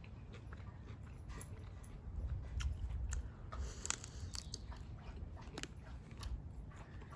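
Close-miked eating sounds: biting into and chewing a shrimp, with many short wet mouth clicks. A low rumble swells about two to four seconds in.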